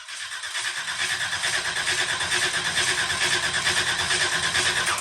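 A 409 small-block Chevy in a front-engine dragster turning over on its starter without firing, a steady rapid pulsing that stops abruptly at the end.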